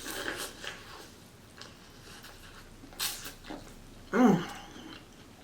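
Close-miked eating: wet chewing and lip-smacking on a seafood boil, with scattered small clicks and one sharper click about three seconds in. A short, loud hum of a voice from the eater breaks in a little after four seconds.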